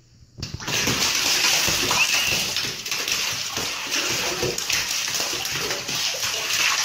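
Water suddenly gushing into a bathtub about half a second in, then running steadily, with splashing as a cat scrambles in the tub.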